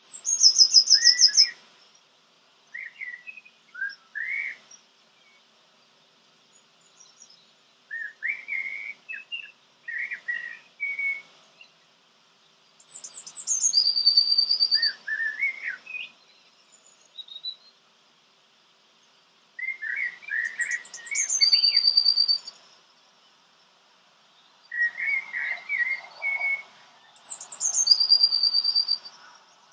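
Songbirds singing. A repeated phrase of rapid high notes slides down into a short trill, about four times, with lower, quieter chirping notes in between.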